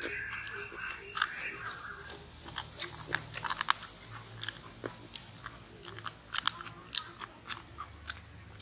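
Crispy deep-fried chicken and banana flower pakoda being bitten and chewed close to the microphone: irregular crunches, thickest a few seconds in.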